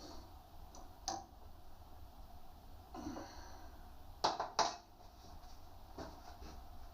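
A few light clicks and knocks of objects being handled, with two louder knocks close together about four seconds in, over a faint background.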